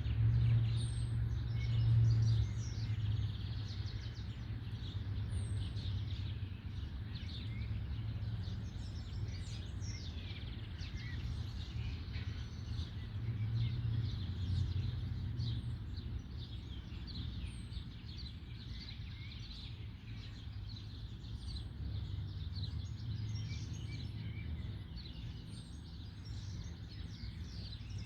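Many small birds chirping and singing in the trees, with short high whistles every few seconds, over a steady low rumble.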